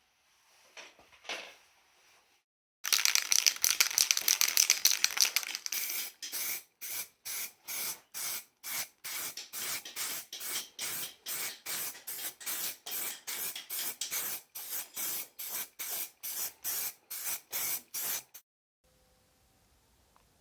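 Aerosol spray paint can hissing: one long spray, then short bursts about two a second, stopping abruptly about two seconds before the end.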